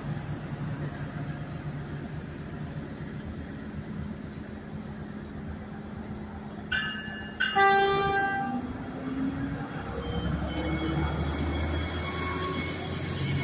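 A Stadler GTW diesel light-rail railcar idles with a steady engine hum, then sounds its horn twice about seven seconds in: a short toot, then a longer, louder blast. Its diesel engine then revs up with a rising whine and a growing low rumble as the train starts to pull out.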